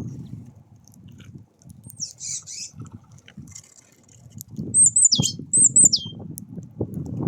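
Small birds feeding at a feeder: irregular low knocking and rustling, loudest about five seconds in. Two short, high, falling calls sound about a second apart near the same time.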